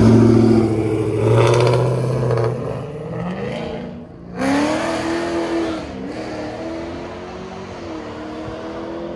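Sixth-generation Chevrolet Camaro accelerating hard away, its engine revving up in pitch. The sound breaks off briefly about four seconds in, climbs again, then settles into a steadier, quieter drone as the car moves off.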